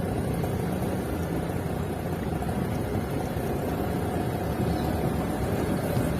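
Steady low rumble of a vehicle in motion, with no sudden sounds.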